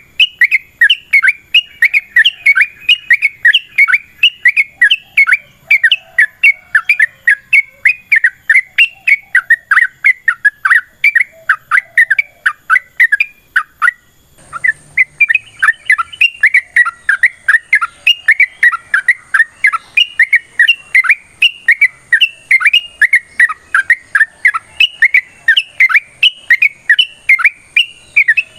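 Yellow-vented bulbul (trucukan) singing a long, unbroken run of rapid, bubbling chirped notes, about four a second, breaking off briefly about halfway through and then resuming.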